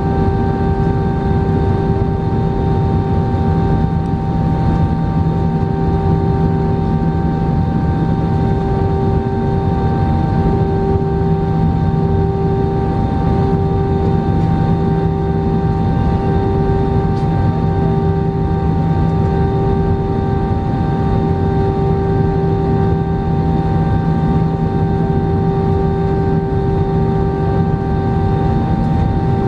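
Jet airliner engines heard from inside the passenger cabin: a steady, loud low rumble with several constant engine tones above it, one of them wavering in strength.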